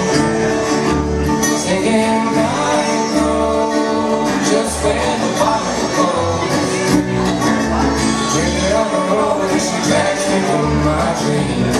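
Live band playing a country-bluegrass song, in a passage with no sung words. A steady, pulsing bass line runs under a lead melody that glides up and down.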